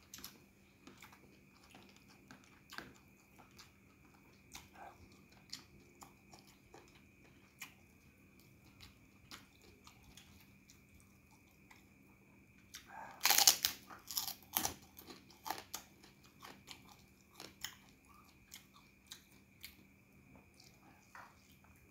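Close-up chewing of rice and goat curry eaten by hand, with soft mouth clicks every second or so. About halfway through come a few loud crunches as a fried kerupuk cracker is bitten and chewed.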